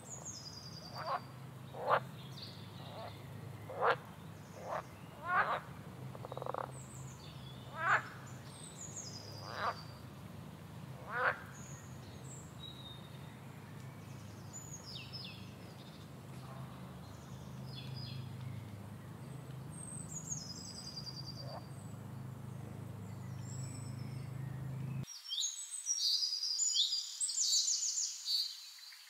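Birds chirping outdoors. For the first dozen seconds a series of short, sharp calls comes about once a second over a steady low hum, and near the end there is a denser run of high chirping.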